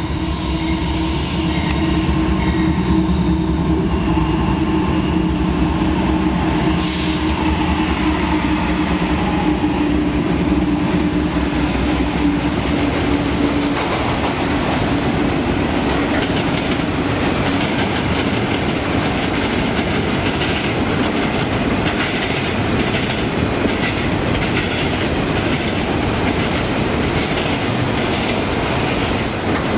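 Diesel freight locomotives passing close, with a steady engine drone that sinks a little in pitch as they go by. About halfway through, the drone gives way to the rolling noise and wheel clatter of autorack cars on the rails.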